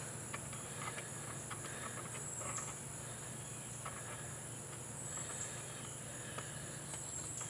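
Steady high-pitched insect chirring, with faint scattered clicks and taps of hand tools working fasteners loose on an outboard motor.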